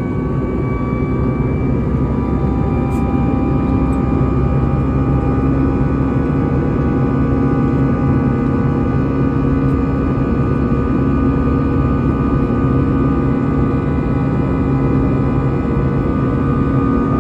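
Airbus A320-214 cabin noise in flight: a steady drone of the CFM56 engines and airflow, with several steady humming and whining tones held over it.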